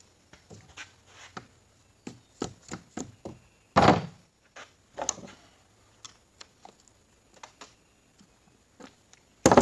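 Metal transmission parts being handled and set down on a workbench during a teardown: a run of light clicks and knocks, with a heavy thunk about four seconds in and another near the end.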